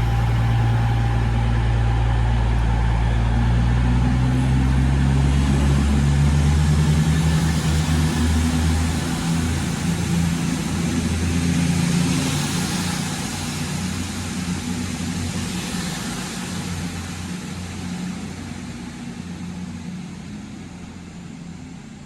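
CrossCountry Class 220 Voyager diesel multiple unit pulling out of the station, its underfloor diesel engines running loudly under power at first, then fading steadily over the second half as the train draws away.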